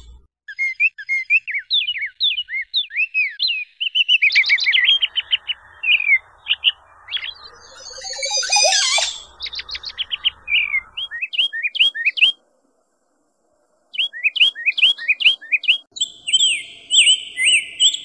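Small birds chirping and whistling in quick series of short, sharp notes that glide up and down, from several spliced sound-effect recordings. There is a pause of about a second and a half a little after the middle, and high, thin whistles join near the end.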